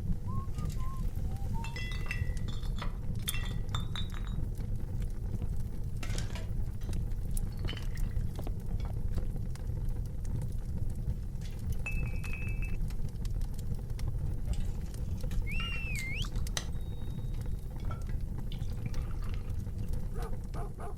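Wood fire burning: a steady low rumble with scattered sharp crackles and pops from the burning logs, and a few brief high whistling tones in the background.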